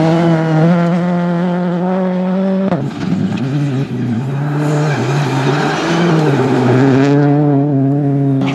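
Rally car engine at high revs, its pitch held steady, then a sudden break about three seconds in, after which the revs rise and fall repeatedly.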